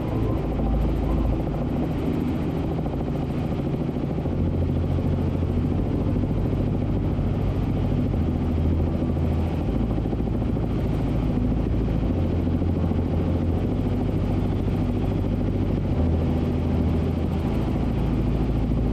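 Helicopter in cruising flight: a steady low drone of rotor and engine.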